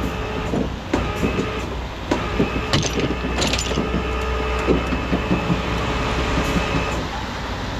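Rollback tow truck's winch pulling a wrecked car onto the flatbed, with the truck's engine running underneath: a steady whine that stops about two thirds of the way through, and scattered metal clanks and clicks from the car and rigging.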